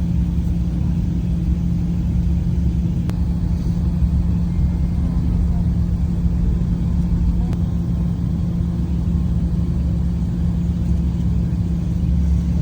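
Airliner cabin noise after landing: a steady low rumble of the engines and air-conditioning, with a constant low hum.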